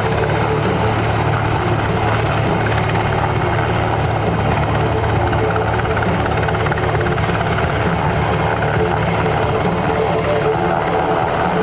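Sikorsky UH-60 Black Hawk helicopters flying, with a loud, steady rotor chop and engine whine.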